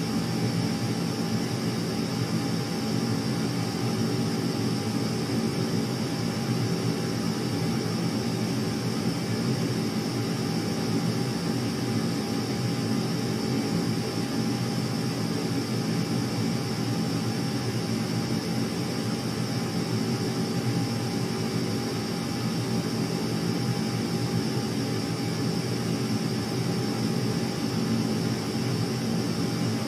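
Steady, unchanging aircraft engine drone with a constant high whine over it, holding the same level throughout, with no approach or fade.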